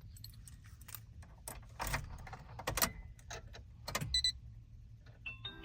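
Car keys jangling and clicking at the ignition of a Mitsubishi Delica. A short high electronic beep sounds a little past the middle. Near the end an ETC toll-card reader begins its stepped electronic chime tones as the ignition comes on.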